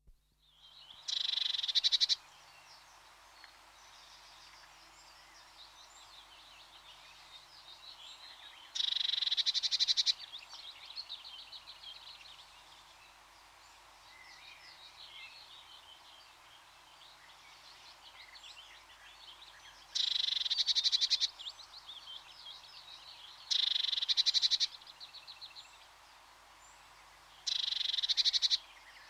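Tits (small songbirds) calling. A fast, high trill of about a second comes five times, loud over a background of many faint chirps.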